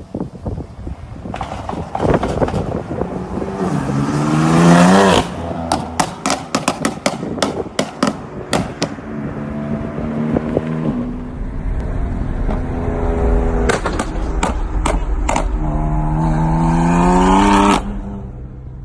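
BMW M4 F82's twin-turbo straight-six revving up hard twice, each rev climbing in pitch and cutting off sharply. Each cut-off is followed by a quick string of sharp pops and crackles from the exhaust on the overrun, and the engine runs steadily between the two revs.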